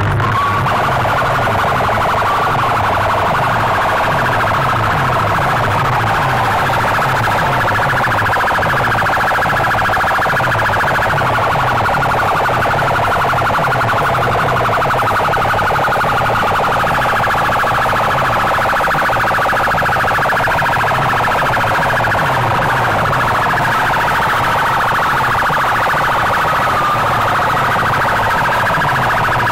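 DJ competition sound-box speaker stacks blasting a siren-like wailing tone over a fast pulsing bass. The sound is loud and unbroken.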